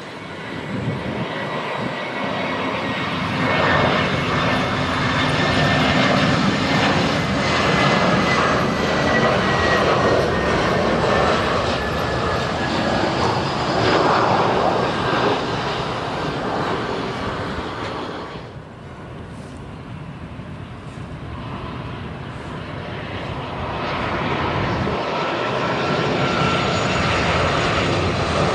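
Jet airliner engines passing close overhead on a landing approach: a loud roar with a whine that slides down in pitch as the aircraft goes by, fading about two-thirds of the way through. The jet noise then swells again near the end.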